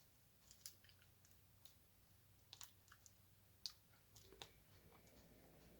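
Faint, scattered light clicks of a diamond-painting drill pen placing resin drills onto the sticky canvas, a few irregular ticks over several seconds.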